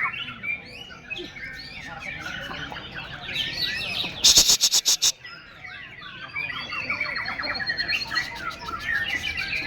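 Several white-rumped shamas singing over one another in fast chirps, trills and whistles. About four seconds in, a short burst of loud rapid clicks cuts across the song.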